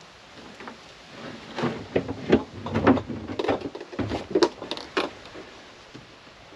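A run of irregular knocks and clatters, as of objects being handled and bumped about, most of them between about one and a half and five seconds in.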